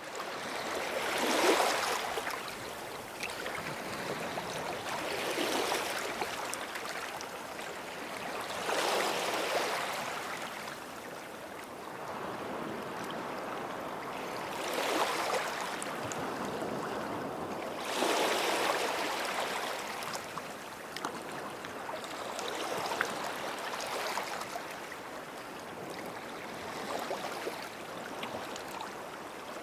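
Small sea waves breaking and washing up on a sandy beach. A surge of rushing water comes about every four seconds, swells and then fades, the loudest one just after the start.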